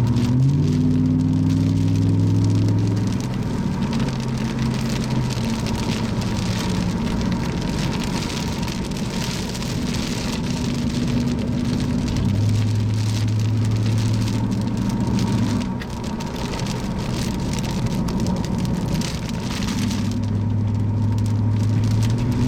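Car driving through heavy rain: a steady hiss of rain and wet-road noise over the engine. The engine note steps up about a second in and changes pitch several more times as the car speeds up and slows.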